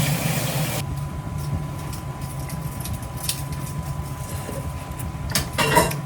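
Kitchen tap water running, shut off about a second in, leaving a steady low mechanical hum with a few light clicks. A short louder clatter comes near the end.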